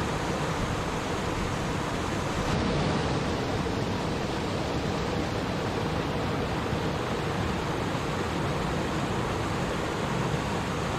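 Stream water flowing steadily, an even unbroken wash of sound.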